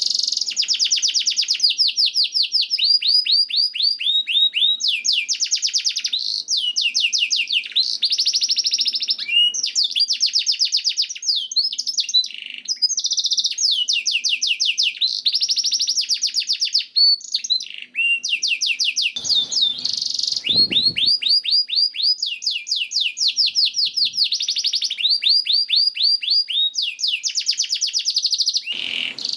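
Domestic canary singing continuously: a long song of rapid trills and rolls, each phrase a second or two long, following one after another with hardly a break.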